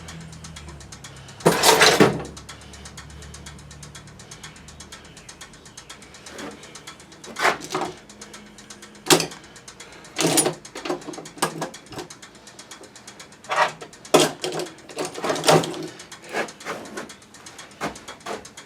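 Tools and metal parts being handled: irregular clicks and knocks, with a longer, louder scrape about two seconds in.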